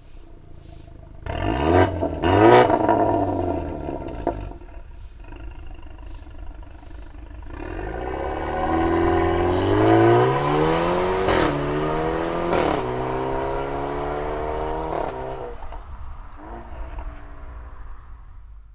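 BMW F30 320i's turbocharged four-cylinder running through an ARMYTRIX aftermarket exhaust and silencer: two quick throttle blips, then a long pull with rising pitch broken by two upshifts, before the engine note settles and fades away.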